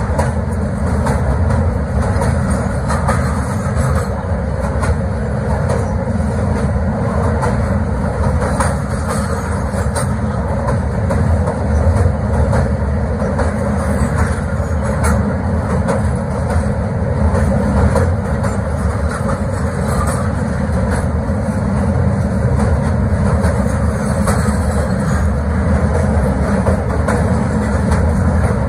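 Train wheels running over the rails of a steel truss railway bridge, heard from the last coach: a loud, steady rumble with faint scattered clicks.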